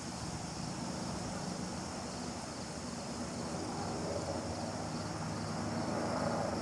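Helicopter flying at a distance: a steady drone that grows a little louder near the end.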